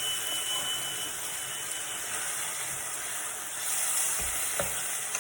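Pieces of vegan chicken sizzling as they fry in a pan over medium heat: a steady hiss, with a few light knocks near the end. A thin high tone fades out over the first two seconds.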